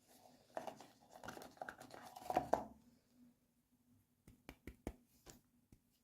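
Hands unboxing toy packaging: plastic crinkling and scraping for about two seconds, then a quick run of sharp clicks.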